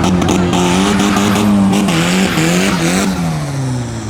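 Car engine held at high revs during a burnout, with the hiss of spinning tyres, then the revs drop back off about three seconds in.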